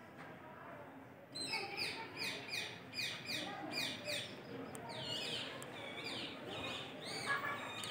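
Birds calling: a run of short, high chirps that each fall quickly in pitch, repeating about twice a second from about a second in, with other calls overlapping near the end.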